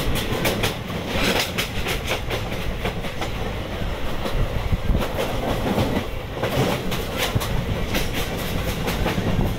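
Passenger train running along the track, heard from a coach doorway: a steady rumble and rush of the moving coach with runs of sharp wheel clicks over rail joints.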